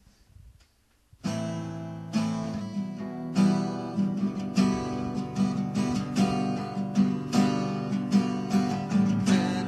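Acoustic guitar strumming a song's opening chords in a steady rhythm, starting about a second in.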